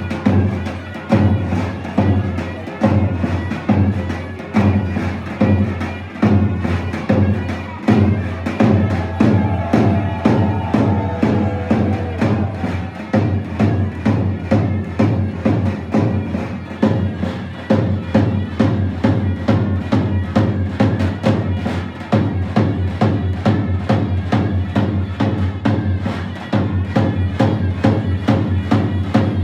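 Turkish folk dance music: a fast, steady drum beat with a held melody line above it.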